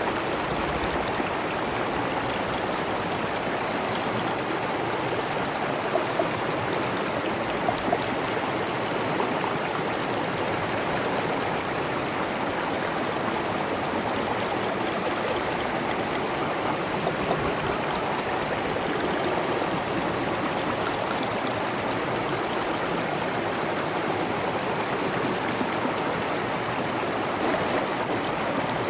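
Stream of water running and splashing, a steady rushing with small gurgles and flicks throughout.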